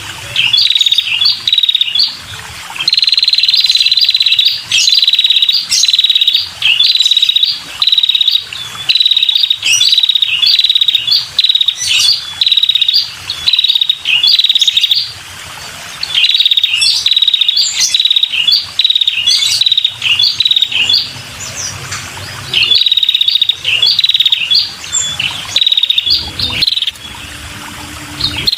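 Female red-headed prenjak calling: about a second-long high trills of rapid notes, repeated again and again with short gaps and mixed with sharp chirps. This is the female's call used to lure male prenjak.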